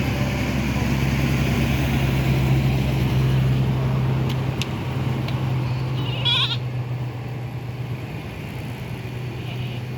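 Goat bleating, with a short call about six seconds in, over a steady low hum.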